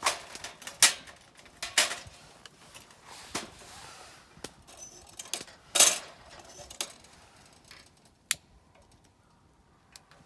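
Irregular sharp clinks and clacks of small hard objects being handled, about eight strikes spread over some eight seconds, the loudest two near the start and about halfway, then near quiet.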